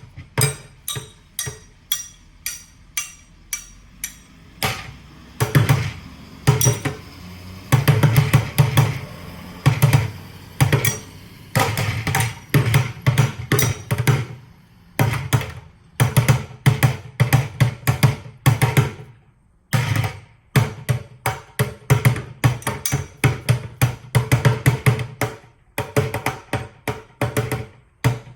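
Drumsticks drumming on buckets: light, evenly spaced taps at first, then fast patterns of louder, low bucket hits mixed with sharp stick clicks, with a short break about two-thirds of the way through.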